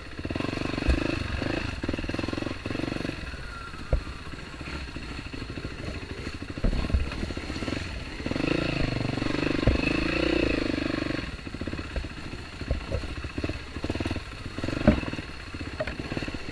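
Dirt bike engine running, its note swelling and easing with the throttle, louder for a few seconds about halfway through, with scattered sharp knocks.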